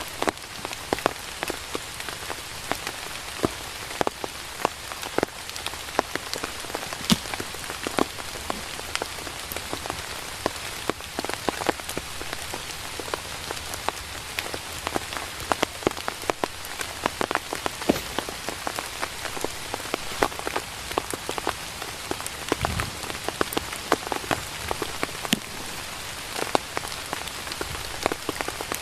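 Steady rain falling, a constant hiss with many separate heavy drops striking close by.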